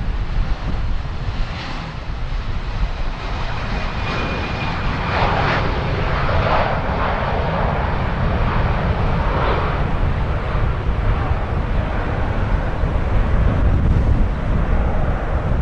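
Twin-engine Airbus A330 jet airliner's turbofans at takeoff power, a loud steady jet noise that swells in the middle, with strong wind buffeting the microphone underneath.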